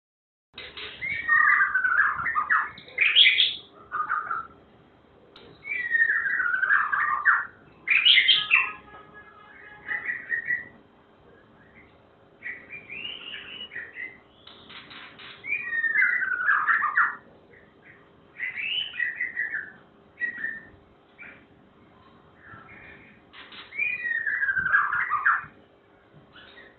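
A songbird singing loud, complex warbled phrases of one to two seconds each, repeated with short pauses between them, over a faint steady hum.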